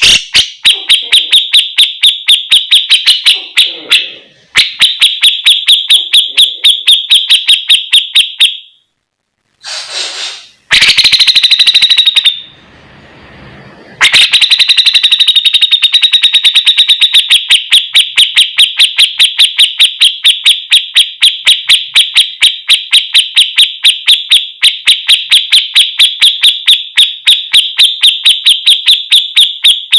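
Loud recorded song of a cucak jenggot (grey-cheeked bulbul): a rapid, even string of sharp high chirps, several a second, breaking off briefly about a third of the way in and then running on unbroken.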